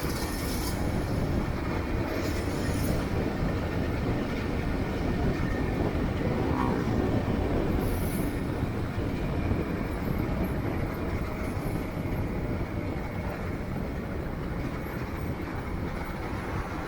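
Steady low rumble of a vehicle in motion, with short high hissing bursts near the start, about two seconds in and about eight seconds in.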